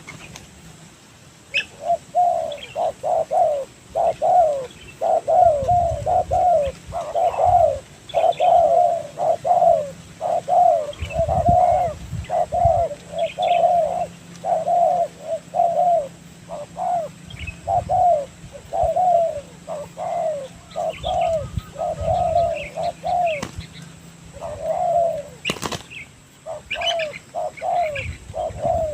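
Spotted doves cooing, a near-continuous run of repeated coos. A single sharp click sounds a few seconds before the end.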